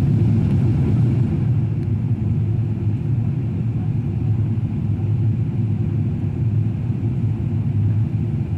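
Steady low rumble of airflow and engine noise inside the cabin of a Boeing 777-300 airliner in flight.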